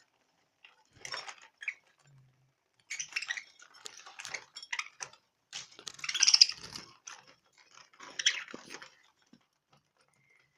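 Small pet birds squawking and chattering in short, irregular bursts.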